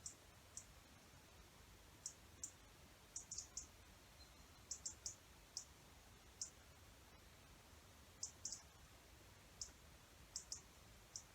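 Small birds giving short, high chirps, singly and in quick clusters of two or three, scattered irregularly over a faint background hiss.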